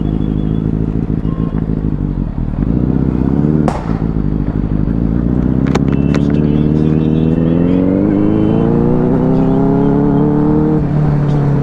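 Benelli 600i's inline-four engine accelerating hard. Its pitch climbs, breaks with a sharp click at a gear change about four seconds in, then rises steadily through a long pull in the next gear before dropping off near the end.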